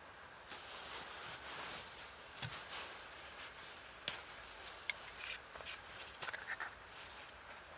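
Soft rustling and rubbing, with single sharp clicks about four and five seconds in and a quick flurry of small crackles near the end.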